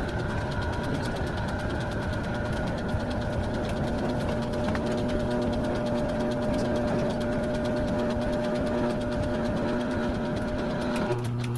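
A machine running steadily, a hum with a fast, even ticking or knocking over it; the hum changes just before the end.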